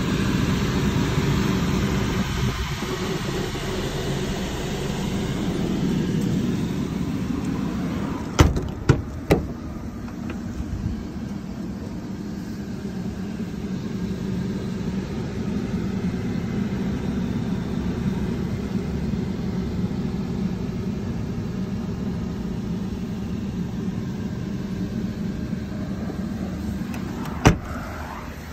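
Suzuki car engine idling steadily at about 1,000 rpm. A few sharp clicks come about eight to nine seconds in, and one more near the end.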